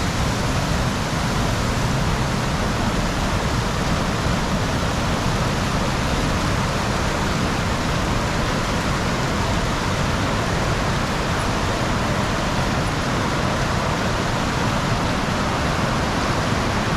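Waterfall on a river in full flow: a loud, steady rush of falling water with no break.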